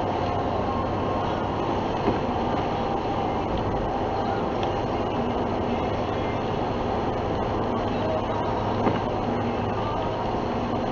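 Steady car engine and road noise heard from inside a moving car, with a constant low hum.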